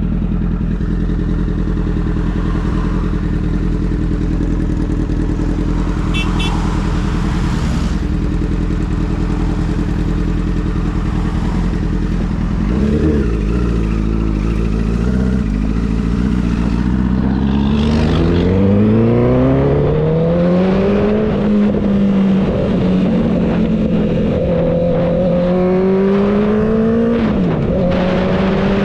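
Motorcycle engine running steadily, then accelerating from about halfway in, its pitch climbing and levelling off. Near the end the pitch dips briefly and rises again.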